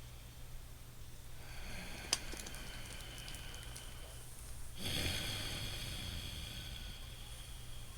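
A man breathing loudly through his nose in slow tai chi relaxation breathing: one long breath about a second and a half in, then a louder one about five seconds in that slowly fades. A sharp click comes about two seconds in.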